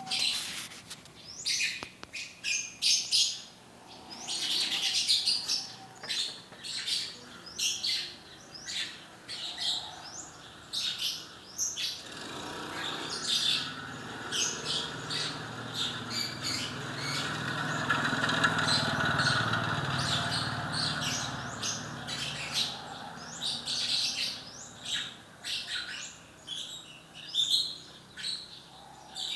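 A lovebird chirping in rapid, shrill runs of short notes, singing hard. In the middle, a low rumbling noise swells up and fades away beneath the chirps.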